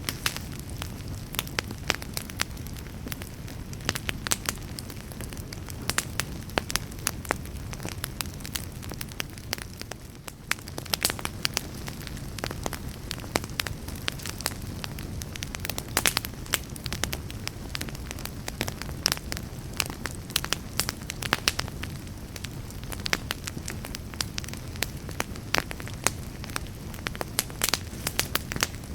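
Wood fire burning in a fireplace: a steady low roar of flame with frequent sharp, irregular crackles and pops.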